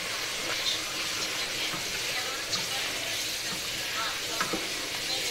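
Chicken curry sizzling in a steel pot as it is stirred with a wooden spatula, a steady hiss with the spatula knocking and scraping against the pot a few times.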